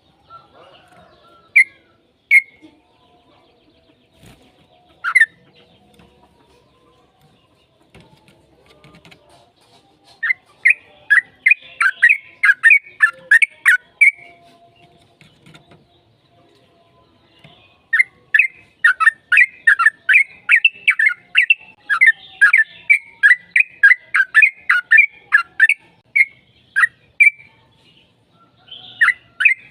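Sooty-headed bulbul (trucukan) calling: a few single short calls, then long rapid runs of chattering notes at about four a second, around ten seconds in and again from about eighteen seconds on. This is the bird's long 'ropel' fighting song.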